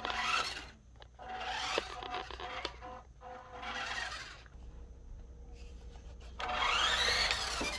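WPL D12 RC truck's small brushed electric motor and gears whining in four short bursts of throttle, with tyres scrubbing on the floor. The last burst is the loudest and rises then falls in pitch.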